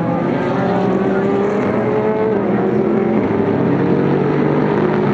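Several Super GT race car engines running together at low, fairly steady revs, their overlapping pitches drifting slightly up and down.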